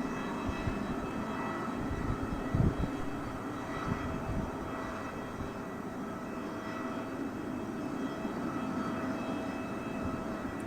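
Jet airliner engines running with a steady rushing noise and whining tones. A few low thumps come in the first three seconds.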